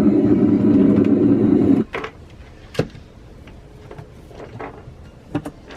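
A loud steady mechanical hum that cuts off suddenly just under two seconds in, followed by a few scattered clicks and knocks.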